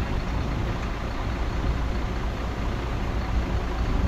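Diesel engine of heavy earthmoving machinery running steadily, a low, even rumble.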